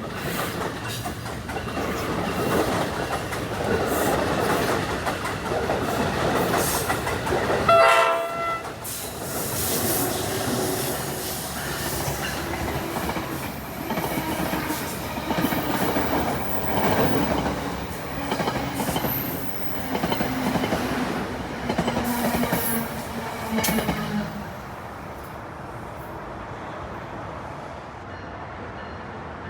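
New Jersey Transit trains rolling through a station, wheels clacking over the rail joints, with one short train-horn blast about eight seconds in. The noise drops to a lower steady level a few seconds before the end as the trains clear.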